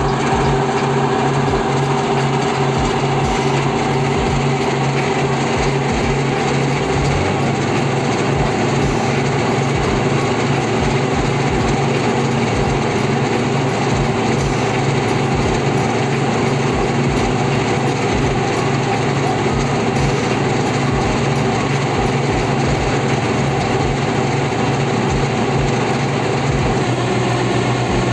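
Heavy truck's diesel engine running at steady high revs on a construction site, with no change in pitch.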